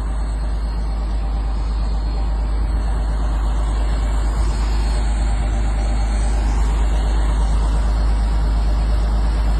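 Strong typhoon wind blowing over the microphone: a steady, loud rush with a heavy low rumble.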